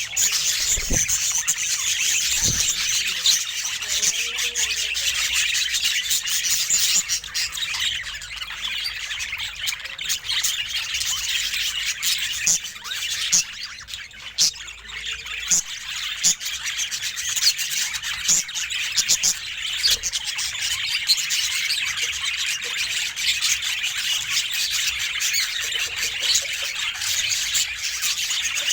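Budgerigar chatter: a dense, unbroken stream of chirps and squawks, with short clicks scattered through it.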